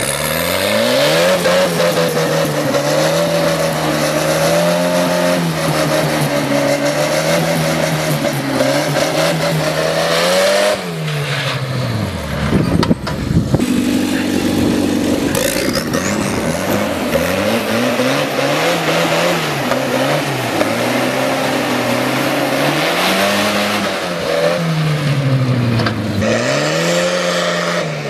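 Turbocharged Volvo engine in a tractor, revved hard and held at high revs, falling back about 11 s in, then revved up again and held before dropping near the end. A thin rising whistle comes in as the revs climb.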